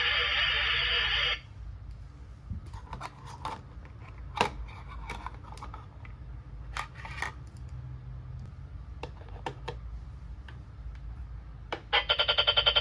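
Light clicks, taps and small knocks of toy kitchen pieces being handled, scattered and irregular. A loud steady sound cuts off just over a second in, and a loud pulsing sound begins near the end.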